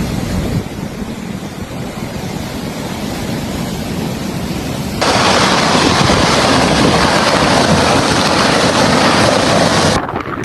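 Rushing water with wind on the microphone: a low, rumbling rush, then an abrupt cut about halfway to a louder, hissing rush.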